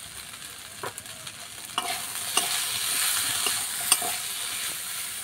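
Chopped green beans sizzling in a metal wok as a metal spatula stirs and turns them, with sharp clicks and scrapes of the spatula against the pan. The liquid has cooked off, so the vegetables are dry-frying. The sizzle swells about two seconds in.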